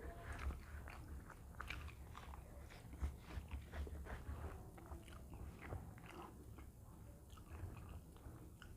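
A person eating, chewing with irregular small clicks and smacks, over a faint steady low hum.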